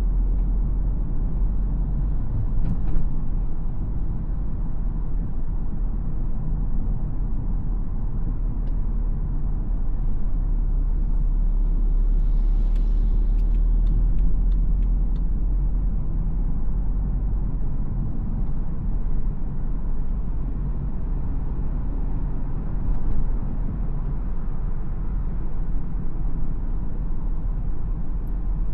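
A BMW X4 xDrive20d's four-cylinder diesel engine and tyres giving a steady low rumble while driving.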